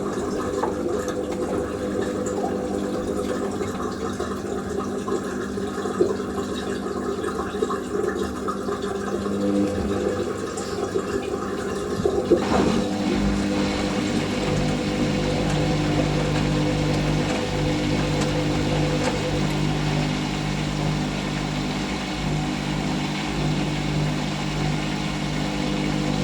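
Hoover SIX Inter@ct AAA Whisper 1600 washing machine draining its final rinse water, with the drain pump running and water gurgling away. About halfway through, the drum motor speeds up into the final slow spin and settles into a steady hum.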